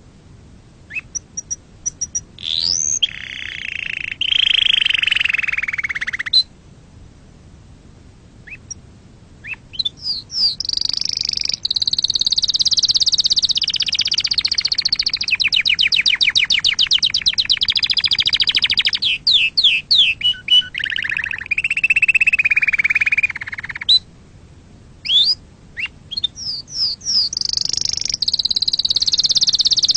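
Domestic canary singing: high-pitched phrases of fast rolling trills, rapid chirps and sweeping notes, broken by short pauses, as a tutor song for canary chicks.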